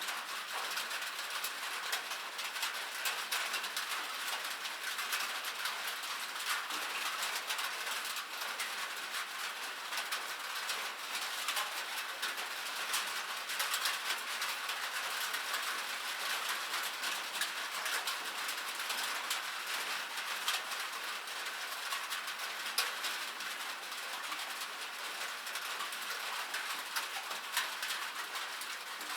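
Rain falling on metal: a steady, dense patter of many small drops ticking on the surface, with no let-up or change.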